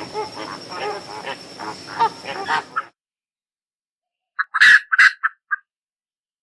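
A dense chorus of many overlapping animal calls, cut off abruptly about three seconds in; after a silent gap, a few loud short calls follow.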